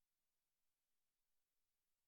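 Silence: the soundtrack is essentially empty, with only a very faint even hiss.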